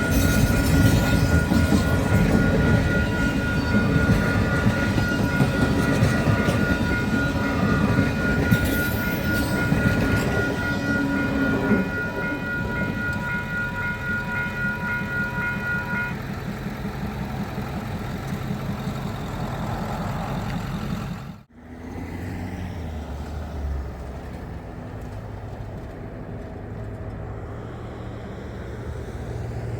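Passenger train rolling past close by, its wheels rumbling and clicking in a steady rhythm. Several high steady ringing tones sound over the rumble and stop about halfway through. After an abrupt break about two-thirds of the way in, a quieter train rumble continues.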